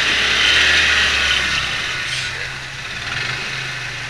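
Off-road pickup truck engine running hard under load while working through an obstacle, a steady mechanical drone with a rough, saw-like edge.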